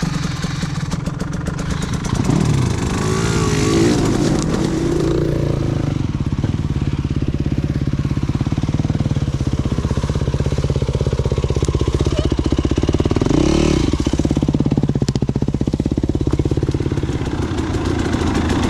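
Dirt bike engine running as it is ridden, its revs climbing and dropping a couple of seconds in and again about two-thirds of the way through.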